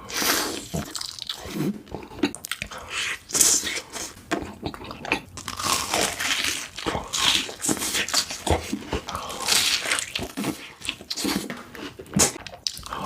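Close-miked eating sounds: repeated crunchy bites and chewing.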